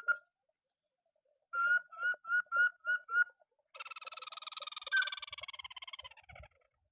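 Crake (burung tikusan) calling: a series of about six clear separate notes, roughly three a second, then a rapid trill of about three seconds that falls slightly in pitch.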